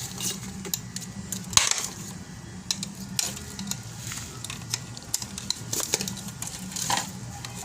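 Irregular small clicks and clatter of metal and plastic parts being handled and fitted back together, with a few louder knocks, over a steady low hum.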